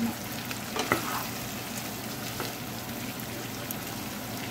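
Chicken and curry leaves sizzling in ghee in a frying pan, stirred with a wooden spoon, with small clicks of the spoon against the pan and one sharper knock about a second in.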